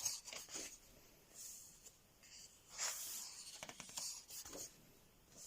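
Thick coloring-book pages being handled and turned, with several soft paper swishes and rustles.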